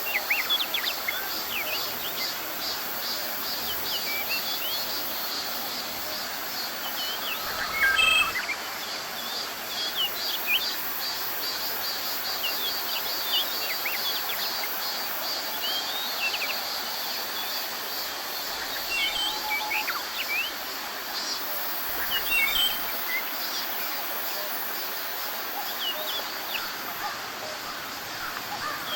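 Forest birds giving many short, high chirps and calls over a steady, pulsing insect buzz, with a constant background hiss. One louder call comes about eight seconds in.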